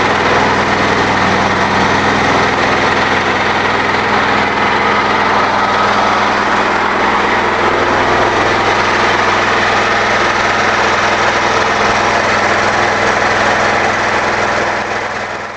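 Small engine running steadily on woodgas from a home-built gasifier, driving a generator; the sound fades out near the end.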